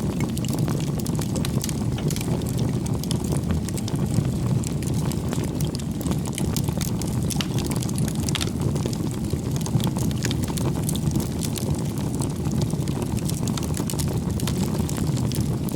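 Bonfire of firewood burning: a steady low rushing rumble with frequent small crackles and pops throughout.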